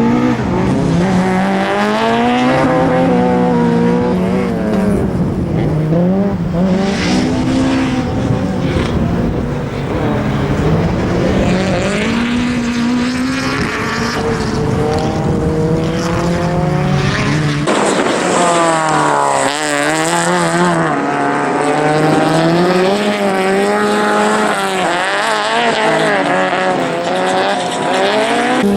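Fiat Punto race car engine driven hard through a slalom course, its pitch climbing under acceleration and falling back again and again with gear changes and braking for the gates.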